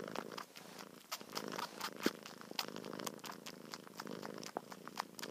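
A cat purring in soft, rhythmic swells, with scattered small clicks.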